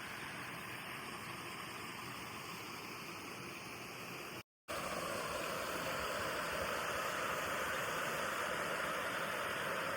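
Steady rush of falling water from a waterfall. It cuts out for a moment about four and a half seconds in, then comes back a little louder.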